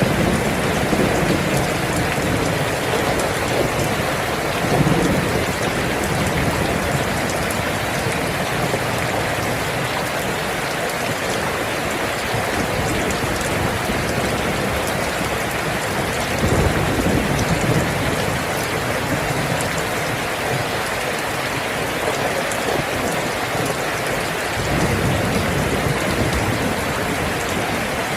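Steady heavy rain falling, an even hiss of drops, with a few low rumbles of distant thunder swelling under it about five seconds in, around the middle and near the end.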